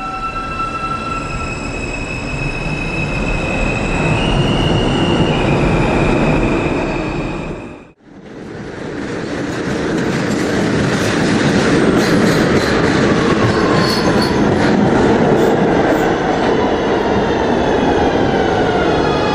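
Electric subway train running, with a steady electric motor whine over rumble and wheel noise on the rails. The sound cuts out abruptly about eight seconds in, then resumes, and in the second half several whine tones glide downward as the train slows.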